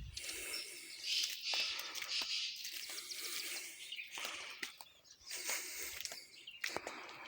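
Outdoor natural ambience with birds chirping and scattered small clicks and rustles.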